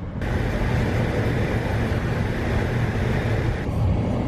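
Steady low rumble of road and wind noise from a car in motion, changing abruptly in tone just after the start and again near the end.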